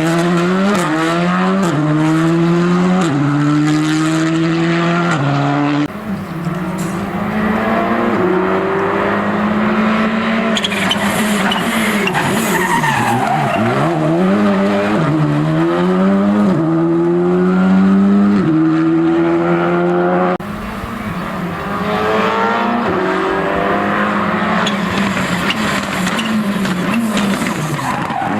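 Rally car engines at full throttle on a special stage, pitch climbing and dropping through quick gear changes and lifts. The sound breaks off abruptly twice, about six and twenty seconds in, into another pass.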